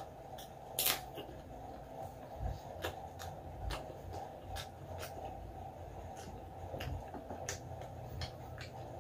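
Close-up chewing of crispy fried chicharon: irregular crisp crunches, the loudest about a second in, over a steady low hum.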